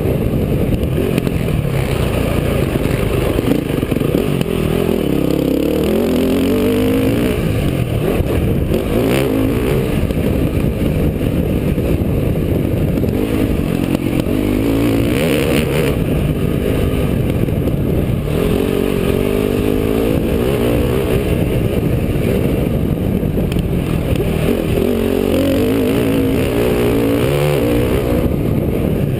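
Motocross dirt bike engine revving hard and dropping off again and again as it accelerates through the gears, under a heavy, steady rushing noise.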